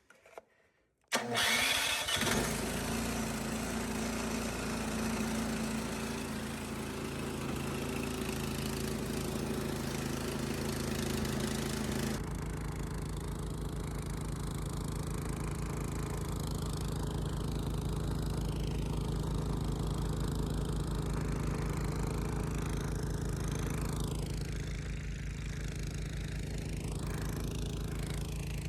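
Engine starting: it catches suddenly about a second in and runs fast and busy, then about twelve seconds in it drops to a lower, steady idle.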